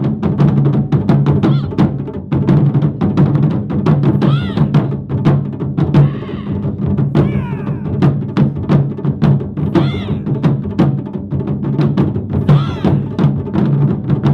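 Japanese taiko drum ensemble playing fast, dense strikes at several per second, with a steady low hum underneath.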